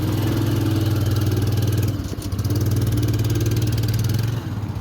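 A vehicle engine running at a steady pitch, close and loud. It eases off briefly about two seconds in, picks up again, and drops near the end.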